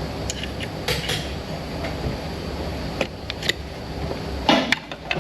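Low steady rumble with scattered metallic clinks and knocks of hand tools and engine parts being handled, a louder cluster of knocks near the end.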